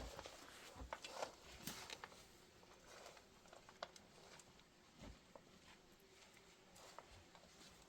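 Near silence with faint scattered clicks and light knocks, busiest in the first two seconds.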